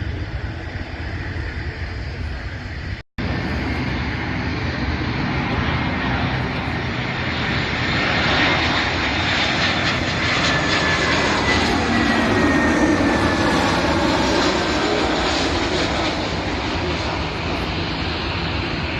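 Jet airliner's engines passing by, the noise building to a peak about two-thirds of the way through, with a whine that falls in pitch as the plane goes past. The sound cuts out for an instant about three seconds in.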